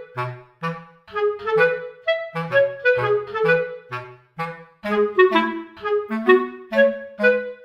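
Background music: a light, bouncy tune of short detached notes on a clarinet-like woodwind over a plodding bass line.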